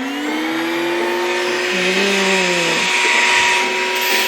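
A&S Batman Edition cordless vacuum cleaner switched on, its motor spinning up with a rising whine over the first second, then running steadily with a high whine and a rushing hiss of air.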